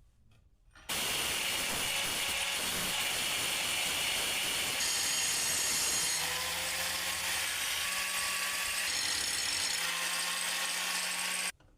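A power tool running under load on the metal workpiece, a dense hissing noise with faint steady tones. It starts abruptly about a second in and cuts off abruptly near the end.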